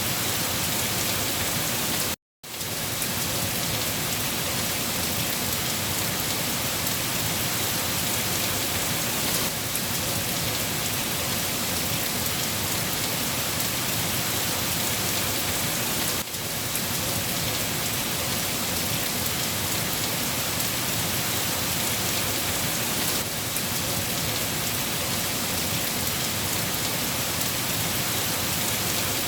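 Steady rain falling and pattering on a surface, an even continuous hiss. The sound cuts out completely for a split second about two seconds in, then resumes at the same level.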